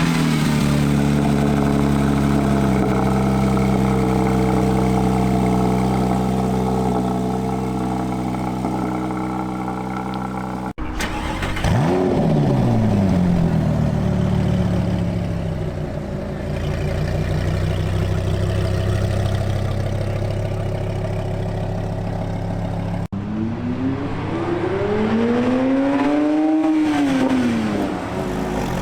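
A car engine running, starting suddenly at a high, slowly settling idle, then revved: once the revs fall away quickly, and later a single rev climbs and drops back over about three seconds. The sound is cut into three pieces.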